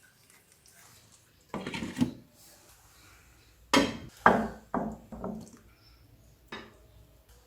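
Kitchen utensils knocking and clattering against cookware: a couple of knocks, then a quick run of four or five louder strikes, and one last click near the end.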